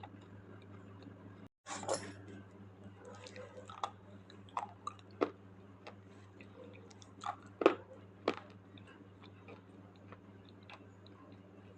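Slate pencils being bitten and chewed close to the microphone: irregular crisp crunches and snaps a second or two apart, the sharpest about three-quarters of the way through, over a steady low hum.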